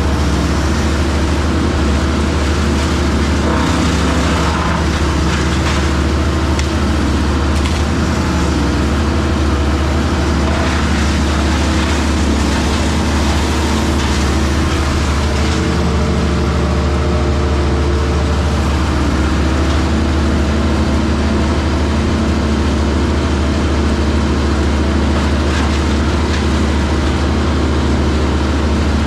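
Heavy diesel machinery running steadily: a deep, constant engine hum with a rougher noisy layer above it that shifts a little in strength, with no clear knocks or breaks.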